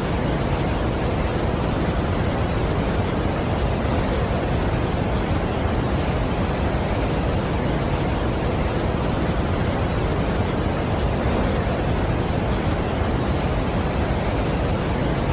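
Steady, even roar of a large waterfall's falling water, deep and unbroken, with no change in level.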